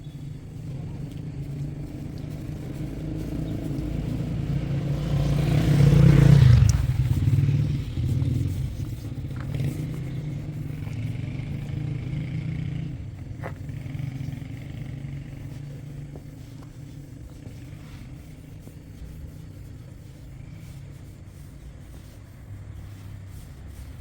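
A motor vehicle passing close by: its engine grows louder, peaks about six seconds in, then slowly fades away.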